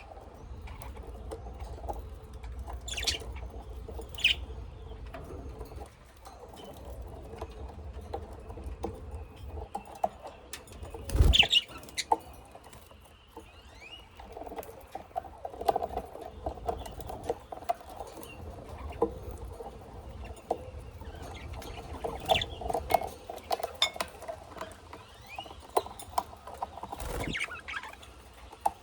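Pet cage birds, budgies and lovebirds, moving about the cage: a constant scratchy pattering of feet and beaks with short chirps now and then. Two louder thumps stand out, one about a third of the way through and one near the end.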